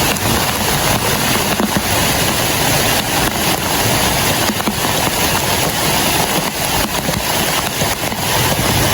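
Heavy rain falling steadily on a clear plastic sheet shelter, a dense unbroken hiss and patter.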